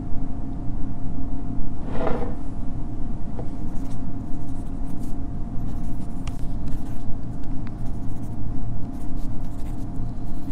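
Pen writing on paper, light scratches and ticks, over a steady low rumble of room ambience with a faint constant hum. A brief louder noise comes about two seconds in.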